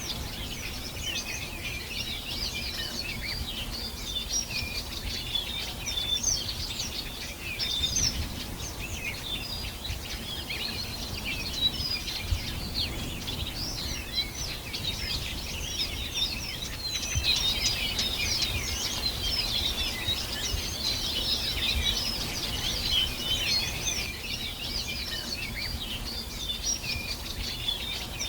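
Many small birds chirping and singing at once in a dense, continuous chorus of quick high twitters and trills, over a steady low rumble.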